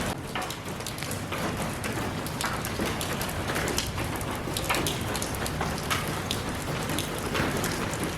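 Steady rain falling, an even hiss with many separate drops pattering and dripping on a surface.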